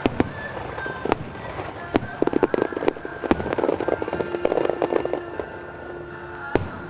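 Aerial fireworks bursting: single sharp bangs every second or so, with a dense run of crackling from about two seconds in to about five seconds in.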